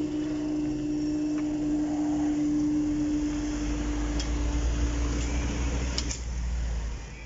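A train passing on the line: a steady wheel squeal carries on and fades out about six seconds in, while a low rumble swells from about halfway through, with a couple of sharp clicks.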